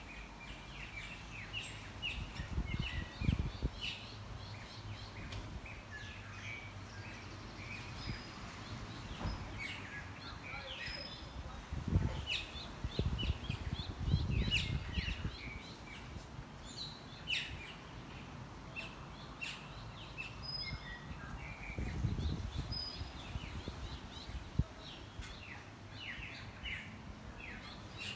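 Birds chirping and calling over and over, short high chirps through the whole stretch, with a few low rumbles about three seconds in, around twelve to fifteen seconds in, and again around twenty-two seconds.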